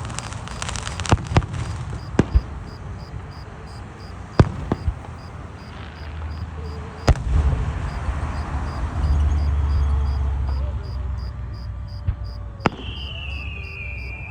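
Fireworks going off: scattered sharp cracks and pops, a low rumble of booms in the middle, and a high whistle falling in pitch near the end.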